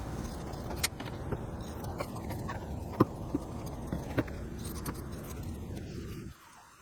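Scissors cutting out an upholstery pattern piece: a series of short, sharp snips at irregular intervals over a steady low background noise, which cuts off suddenly near the end.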